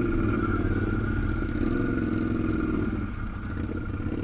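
Off-road vehicle engine running steadily at low speed with a thin steady whine above it, easing off slightly about three seconds in.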